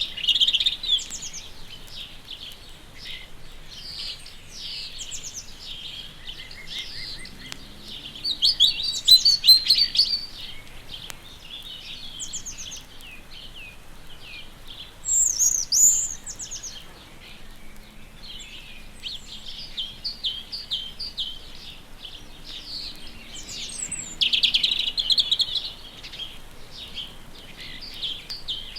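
Several small songbirds singing and calling at once in a continuous twittering chorus. Louder bursts of song come about a third of the way in, around halfway, and again near the end.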